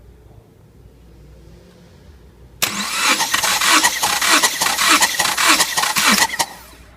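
Subaru EJ253 2.5L flat-four being cranked over by its starter for a compression test, with a regular pulsing beat. It starts suddenly about two and a half seconds in and stops after roughly four seconds without the engine firing.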